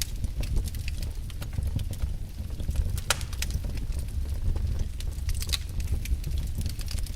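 Wood logs burning in a fireplace: a steady low rumble of flames with irregular crackles and pops, a sharper pop about three seconds in and another a little past five seconds.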